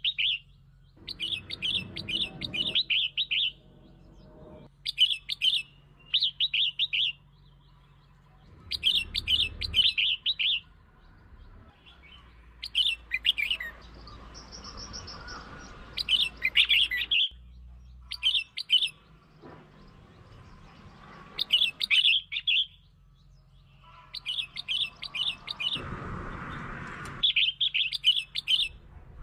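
Red-whiskered bulbul song: short bursts of quick chattering notes, each about a second long, repeated every couple of seconds. It is the kind of song used as a lure to provoke and draw in other bulbuls.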